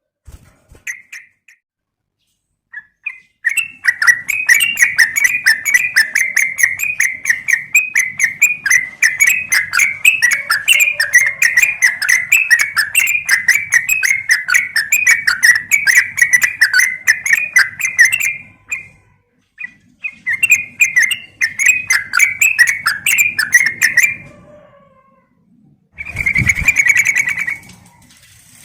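Yellow-vented bulbul (trucukan) calling in a rapid, fast chatter of notes, in two long runs and a shorter burst near the end, with a low thump under the last burst.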